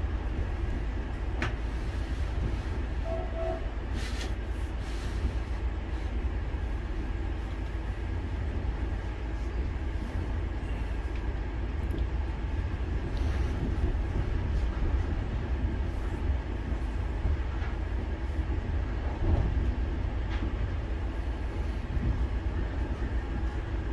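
Running noise of a passenger train heard from inside the carriage: a steady low rumble with hiss and a few faint clicks and knocks. A short double beep sounds about three seconds in.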